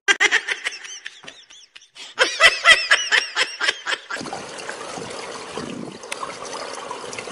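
A person laughing in quick repeated bursts, in two runs over the first four seconds. After that there is a steady outdoor background hiss.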